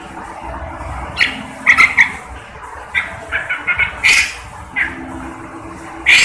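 Cucak jenggot (brown-cheeked bulbul) giving short, harsh call notes in quick clusters, the loudest just past four seconds in and again near the end, over a steady low hum.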